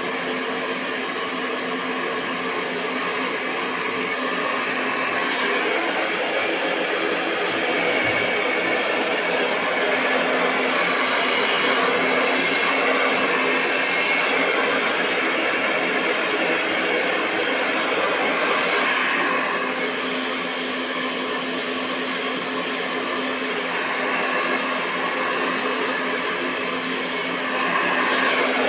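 Hair dryer running continuously: a steady rush of air over a constant motor hum, with small swells in loudness but no breaks.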